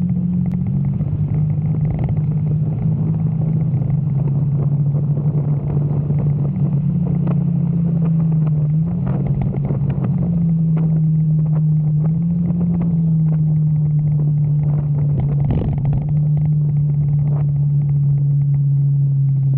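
Motorcycle engine running under way, its low drone stepping up and down in pitch a little as the throttle changes, with scattered short ticks over it.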